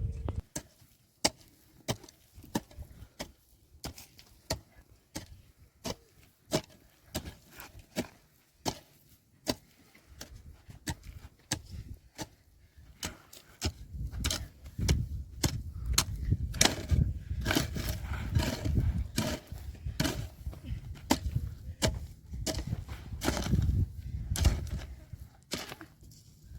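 Repeated sharp strikes on wood, about one or two a second at first, coming faster and thicker in the second half with a low rumble underneath.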